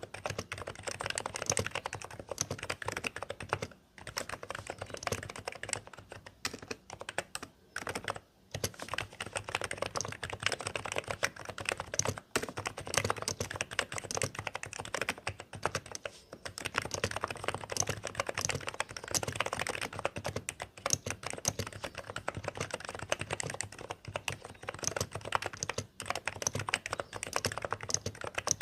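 Typing on a Hansung GK868B compact electro-capacitive keyboard: a steady, rapid stream of keystrokes with a few brief pauses.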